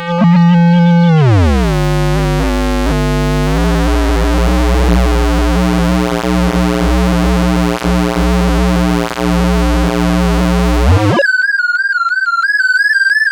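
Synthesized electronic sci-fi sound effect: a buzzy pitched tone drops in pitch about a second in and settles into a low, harsh droning hum. Near the end the hum cuts off suddenly and a thin, high, warbling electronic tone takes over.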